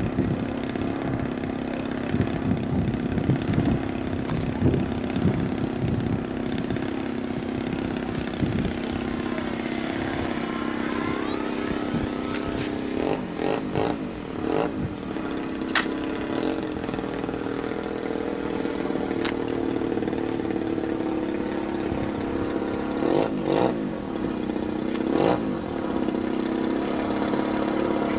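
Small model airplane engine running steadily, with a falling pitch about ten seconds in as a plane passes, and a few sharp clicks.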